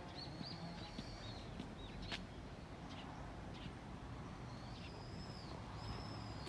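Small birds chirping: a string of thin, high calls that rise and fall in short arcs, repeated several times, over a faint background hush.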